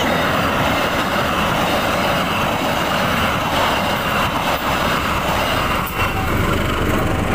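Passenger train passing close at speed: a steady rush of wheels on rail and coaches going by. Near the end the low engine hum of a diesel locomotive approaching on the next track joins in.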